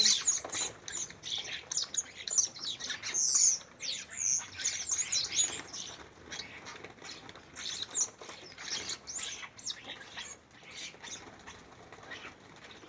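Small garden birds chirping and twittering in quick, overlapping calls, with wings flapping as they come and go at a feeder. The calls are busiest in the first half and thin out after about six seconds.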